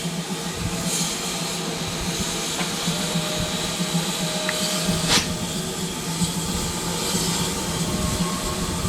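A Modified Hall 4-6-0 steam locomotive hauling its train away from a station, heard from a coach behind it: a steady rumble and hiss of the moving train, with one sharp click about five seconds in.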